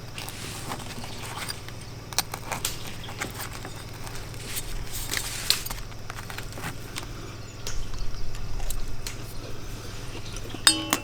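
Scattered small clicks, taps and handling knocks over a steady low hum, with a low rumble swelling up about eight seconds in.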